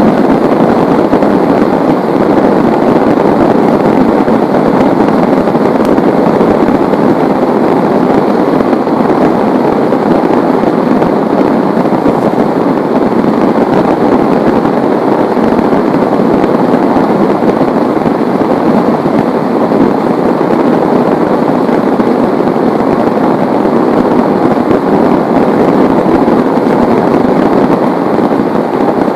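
Heavy rain falling in a loud, steady, dense patter with no let-up.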